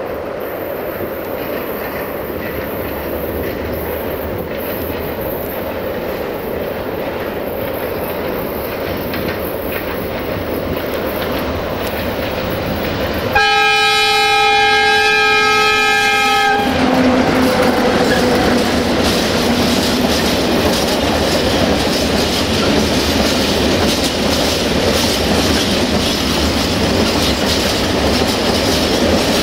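060-DA (LDE2100) diesel-electric locomotive hauling a freight train of hopper wagons, its engine growing louder as it approaches. About halfway through it sounds its horn, one blast of about three seconds with several tones at once, then the wagons roll past with a steady clickety-clack.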